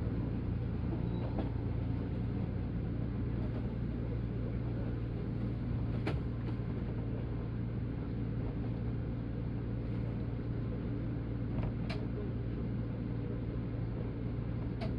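185 series electric train's steady low hum and rumble heard from on board, with a few short sharp clicks.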